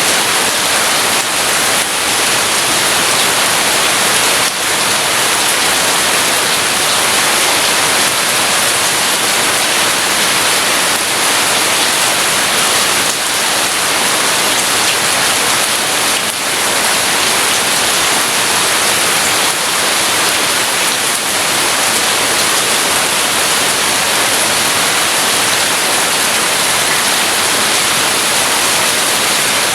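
Rain falling steadily, a dense even hiss with no thunder in it.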